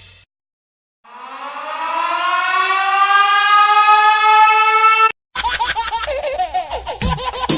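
A siren winding up: one pitched tone that rises quickly, then levels off and holds for about four seconds before cutting off abruptly. After a short gap, a different sound starts, with a wobbling, warbling pitch over a rhythmic beat.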